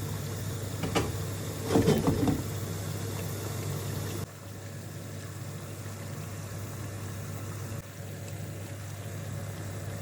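A steady low hum as pans cook on the gas hob, with brief clatters about one and two seconds in.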